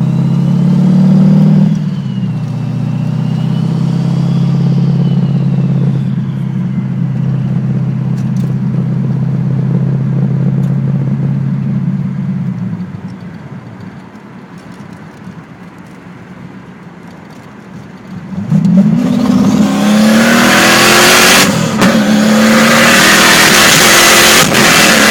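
Turbocharged Chevrolet 396 big-block V8 in an SS Camaro, running steadily for about thirteen seconds with a high whine rising and falling over it, dropping back quieter, then revving up loud with the pitch climbing for the last several seconds. The engine is one the owner says needs tuning.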